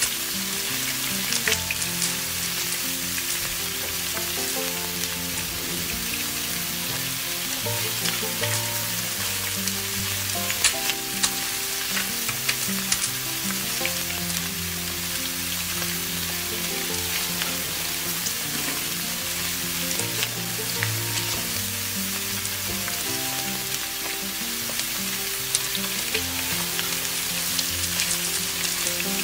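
Pumpkin-flower fritters in gram-flour batter frying in hot oil in a kadai: a steady sizzle with scattered crackles and pops. Instrumental background music plays underneath.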